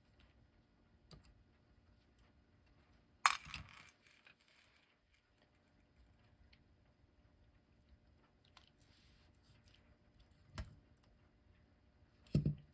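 Small metal parts being handled while a screw is taken out of an electric clock movement: sparse light clicks and taps, with one sharp metallic clink about three seconds in.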